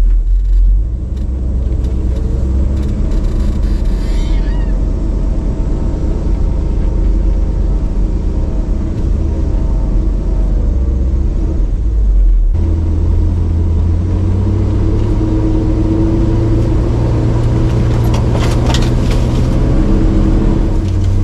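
Truck engine running steadily while driving off-road, a low hum that changes to a steadier, stronger drone after a cut about twelve seconds in, with some brief rattling near the end.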